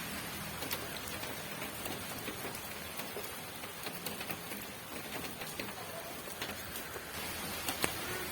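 Steady rain falling, with scattered single drops ticking sharply on a hard surface.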